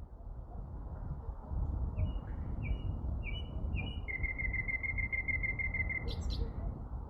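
A songbird singing: four short, clear high notes about half a second apart, then a fast even trill of about eight notes a second lasting about two seconds, ending in a brief higher buzzy note. A steady low rumble sits beneath it, fading in at the start.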